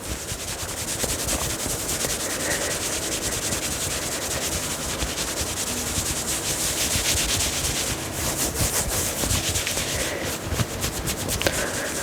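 Fingers scratching and rubbing a knit turtleneck close to the microphone: a continuous high, hissy scratching made of rapid fine strokes, with a denser stretch of strokes about two-thirds through.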